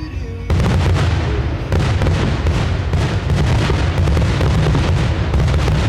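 Fireworks going off in a rapid, continuous barrage of booms and crackling bursts, starting suddenly about half a second in.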